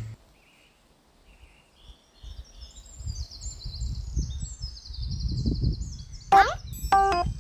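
Birds chirping and singing high up, with wind gusting on the microphone, after a near-silent first two seconds. Near the end a rising sweep and bright keyboard-like music notes start.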